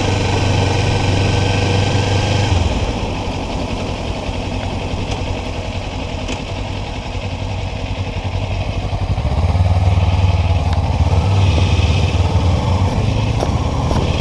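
Kawasaki Ninja 400's parallel-twin engine running under way. The engine eases off about two and a half seconds in and runs quieter for several seconds, then pulls harder again from about nine seconds in.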